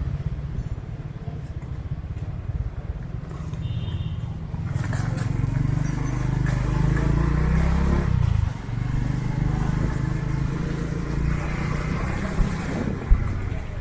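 Motor vehicle engine and road noise heard while moving, with the engine note rising about five seconds in and dropping briefly about eight and a half seconds in, like a gear change. There is a single sharp knock near the end.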